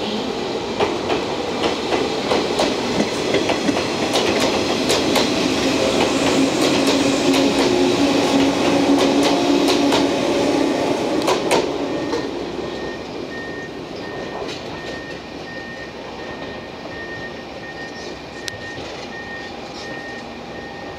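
A train of a KuMoYa 145 service car and three JNR 115-series electric cars running past: wheels clicking over rail joints, with a hum, growing louder toward the middle. About twelve seconds in it falls away as the last car passes and draws off. A repeating beep runs through the later part.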